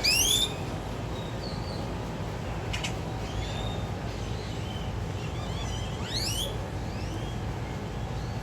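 Birds calling: a loud, quick upward-sweeping call at the start and another about six seconds in, with short chirps in between, over a steady low hum.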